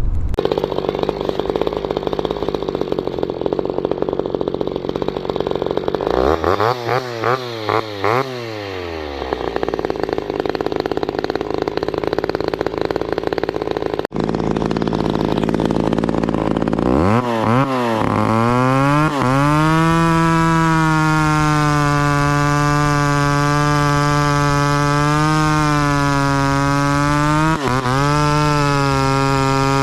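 Two-stroke chainsaw running and blipped up and down a few times. About halfway through it revs up and is held at high revs with a slight wavering in pitch.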